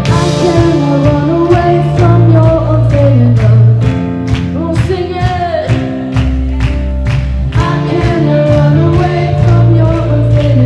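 Live worship band playing a song with sung vocals over a steady drum beat and bass.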